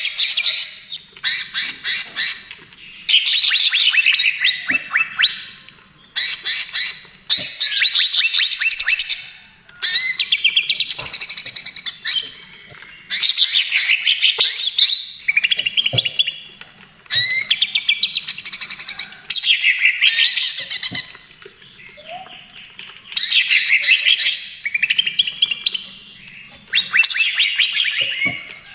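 Greater green leafbird (cucak ijo) singing loudly in the rapid 'trotol' style: bursts of fast, rattling, chattering notes, each phrase a second or two long, repeated every few seconds with short pauses.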